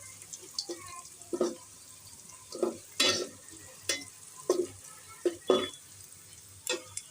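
A spoon stirring and scraping through browned onions and whole spices frying in oil in a pot, with a light sizzle underneath. The strokes come unevenly, about one a second.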